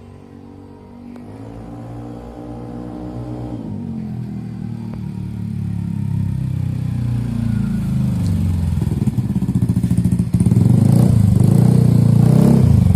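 Yamaha NMax 155's single-cylinder engine running through an aftermarket DMS racing exhaust, growing steadily louder and ending in a loud, evenly pulsing exhaust note near the end.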